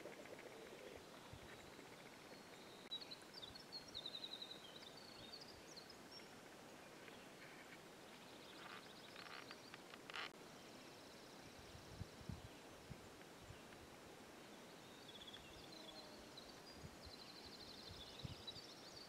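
Near silence of calm outdoor air, with faint high bird chirps and quick trills now and then, and a short click near the middle.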